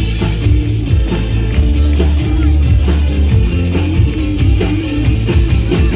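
Band music without vocals: an instrumental passage of a Taiwanese-language pop song, with a steady drum beat, bass and guitar.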